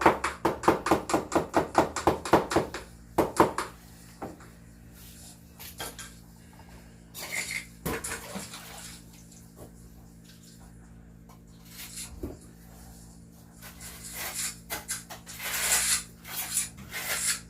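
Metal trowel clacking rapidly against a container while mixing refractory mortar, about five strokes a second for the first three seconds or so. This is followed by scattered scrapes of the trowel through the mortar.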